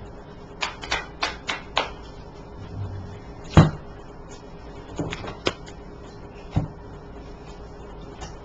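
Hands working a deck of oracle cards: a quick run of sharp card snaps and taps, one louder thump about three and a half seconds in, then a few more scattered taps.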